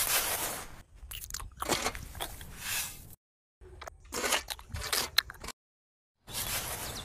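Crunching, gritty sounds in four separate stretches, each cut off abruptly by dead silence.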